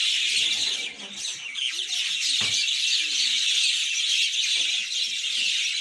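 Many birds chattering at once in a dense, continuous chorus of high chirps, with a low knock about halfway through.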